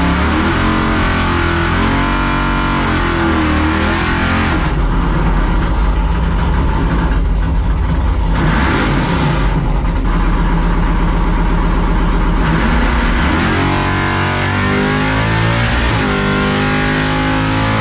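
C10 drag truck's engine running hard at wide-open throttle on a drag-strip pass, its pitch climbing and falling with the revs.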